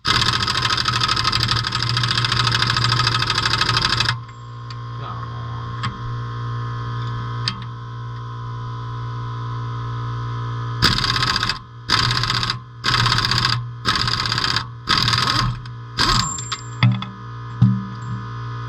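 A power tool runs in one long burst of about four seconds, then in a string of short bursts near the end, over a steady electrical hum.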